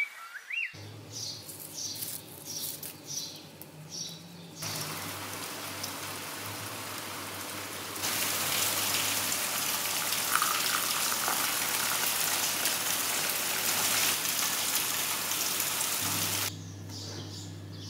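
Steady hiss of water, like rain falling or a tap running. It is fainter with light ticks at first, grows much louder about eight seconds in, and cuts off abruptly a couple of seconds before the end.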